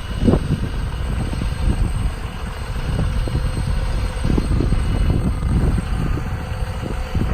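Cummins turbo diesel engine of a 2008 Sterling 5500 bucket truck running steadily with the PTO engaged, driving the hydraulic pump that works the boom.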